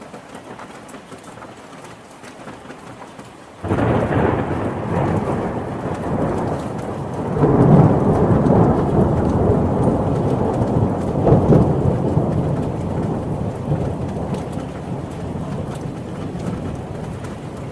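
Steady rain falling, then about four seconds in a sudden loud thunderclap that rolls on with two further swells of rumbling and slowly dies away while the rain continues.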